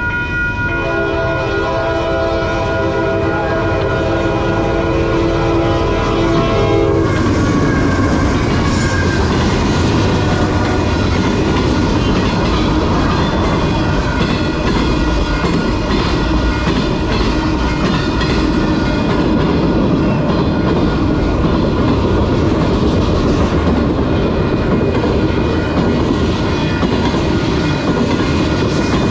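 Locomotive horn sounding a multi-note chord for about six seconds, then a train passing close by with a loud rumble and the clatter of wheels over the rails.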